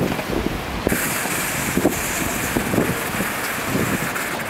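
Wind rushing over the microphone during a bicycle ride, with road and tyre noise; the hiss gets stronger about a second in.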